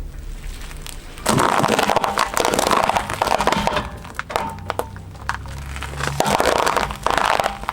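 A car tyre rolling over and crushing something brittle, with dense crackling and snapping. It comes in two spells: the first starts about a second in and lasts a couple of seconds, and the second comes near the end.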